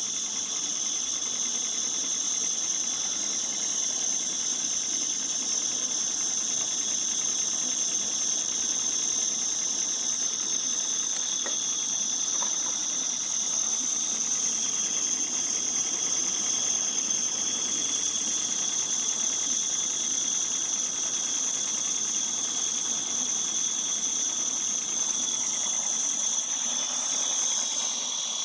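Accucraft Ruby live-steam model locomotive hissing steadily, with high whistling tones over the hiss and no clear beat of exhaust.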